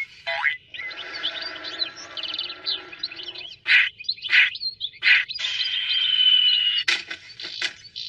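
Cartoon soundtrack of rapid, high, bird-like chirps and squeaks with quick pitch sweeps. From about the middle come several short, sharp bursts, and one long, slowly falling whistle-like tone.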